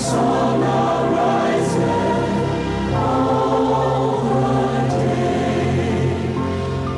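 A congregation singing a devotional song together in chorus, holding long notes that change every few seconds.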